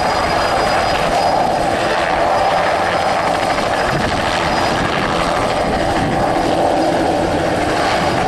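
Agusta-Bell 206B light helicopter flying, its turbine and rotors making a loud, steady sound.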